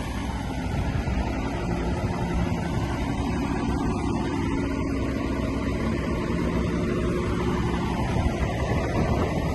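Heavy diesel earthmoving machinery running steadily with a low rumble, with faint held tones that shift in pitch now and then.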